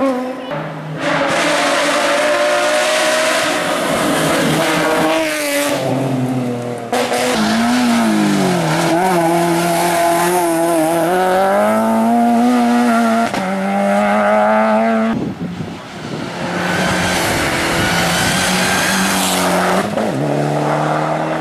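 Race car engine at high revs, its pitch climbing and then dropping again and again as it shifts gears and lifts off, with a brief drop in engine tone about two thirds of the way through before it pulls hard again.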